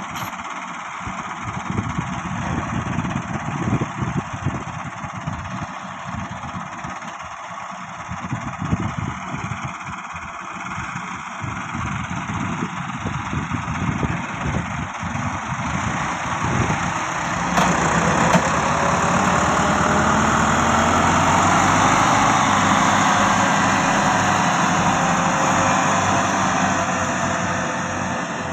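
Massey Ferguson 385 tractor's diesel engine running unevenly at working speed. About two-thirds of the way in it revs up hard to a loud, steady high-rev run, its pitch climbing, then eases off near the end.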